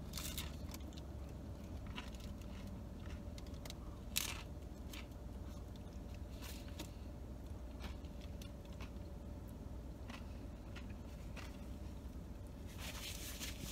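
A taco being bitten into and chewed with the mouth closed: faint, scattered mouth clicks and smacks, with one sharper click about four seconds in, over a steady low hum.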